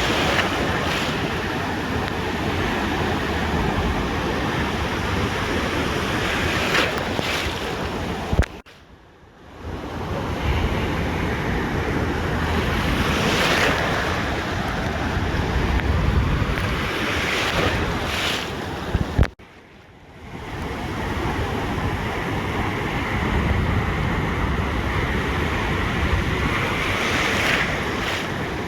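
Ocean surf washing onto a beach, a steady rush with waves swelling every few seconds, and wind buffeting the microphone. The sound cuts off abruptly with a click twice, about a third and two-thirds of the way through, and builds back up each time.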